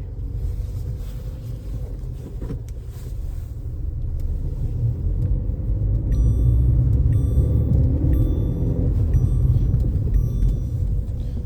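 Lada Vesta NG running in second gear, heard from inside the cabin: a low engine rumble with road noise that grows louder a few seconds in as the car speeds up. No whine from the six-speed manual gearbox can be picked out, which the driver takes to mean the gearbox has no hum.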